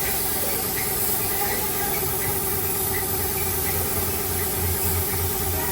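A repaired car's engine idling steadily just after being started, with a low pulsing in the second half.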